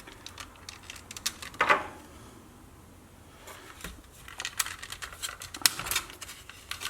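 Plastic Walkman case being pried at: clicks and scrapes of a thin blade and fingernail against the clipped plastic shell, with a louder scrape about two seconds in and sharp clicks near the end.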